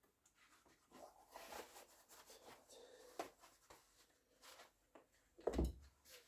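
Faint rustling and scraping handling noises, with a sharp click about three seconds in and a louder dull thump near the end.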